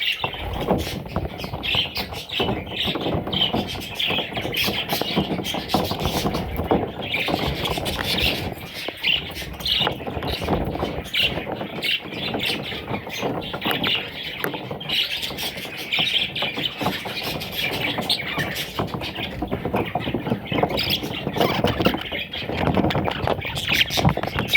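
A group of budgerigars chattering and squawking, many short calls overlapping without pause.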